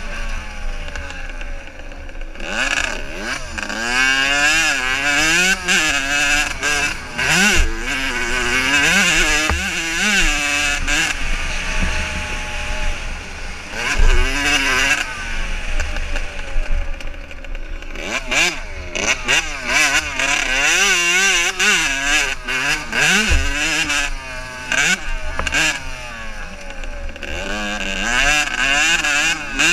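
Several motocross bikes racing, their engines revving up and dropping back again and again as they accelerate and shift, with the notes of more than one bike overlapping.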